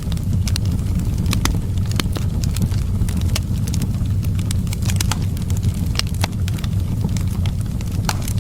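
Wood fire crackling in a fireplace, with frequent irregular sharp pops and snaps over a steady low rumble of wind.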